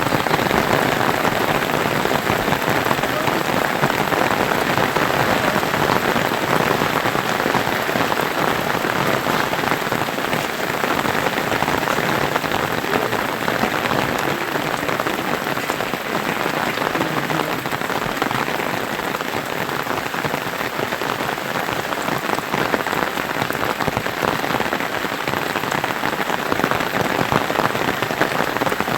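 Steady rain falling, a dense even patter of drops that holds at the same strength throughout.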